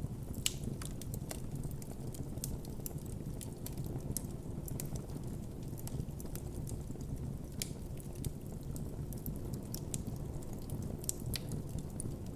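Campfire burning steadily with a low rush of flames and frequent irregular crackles and pops of burning wood.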